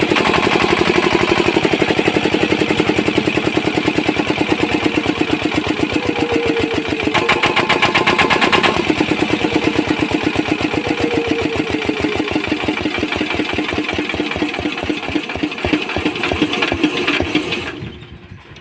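Kirloskar diesel engine running unloaded under its governor just after starting, with a rapid, steady firing beat. The sound eases off over the last several seconds, then drops away abruptly near the end.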